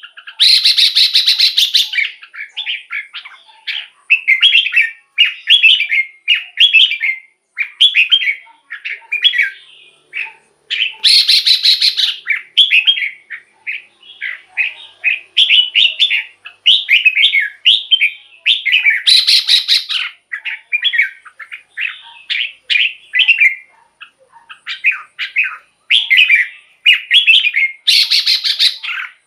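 Red-whiskered bulbul singing a rapid run of short, warbled whistled phrases. About every eight to nine seconds the song is broken by a harsher, buzzy burst lasting a second or two.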